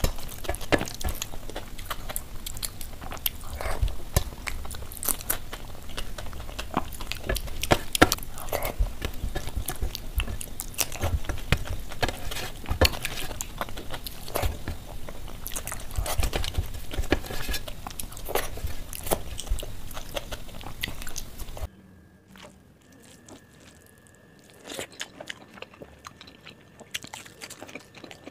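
Close-miked chewing and biting of someone eating rice with mashed potato and omelette by hand, with frequent wet clicks and smacks and fingers mixing food on a steel plate. About 22 seconds in the sound cuts abruptly to a quieter stretch of softer chewing over a faint steady tone.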